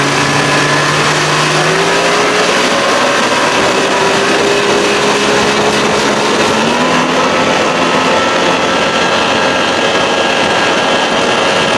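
1992 Johnson 60 hp two-stroke outboard running under heavy throttle on a moving boat, its pitch climbing in steps, about two seconds in and again about six and a half seconds in, then holding high and steady, over a steady rush of wind and water.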